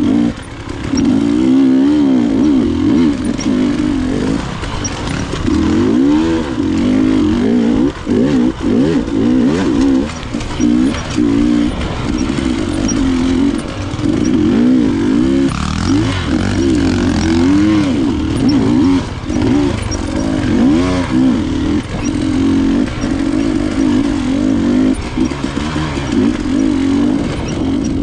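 Enduro dirt bike engine running on a trail, its pitch rising and falling continually as the throttle is opened and closed.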